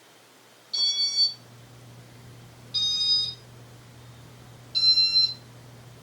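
Three electronic beeps, each about half a second long and spaced two seconds apart, from the Casablanca ceiling fan's control running in demo mode. A low steady hum starts just after the first beep.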